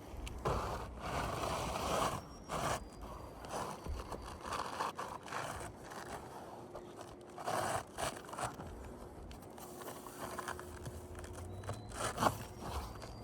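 Roof shingle being worked loose by hand: irregular scraping and tearing strokes, with a sharp click near the end.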